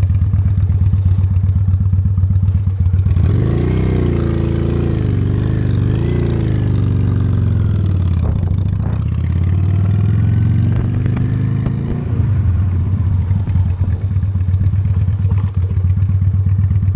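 Honda Steed V-twin motorcycle engine idling, then pulling away about three seconds in, its pitch rising and falling as it rides with wind noise, and settling back to an idle about twelve seconds in.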